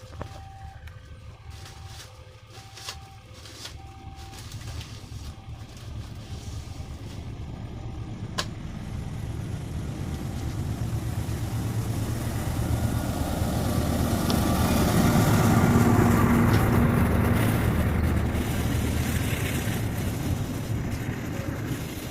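A level-crossing warning signal alternating between two tones for the first few seconds, then a diesel locomotive-hauled train approaching. Its rumble grows steadily louder, is loudest about three-quarters of the way through as it passes, and eases off a little near the end.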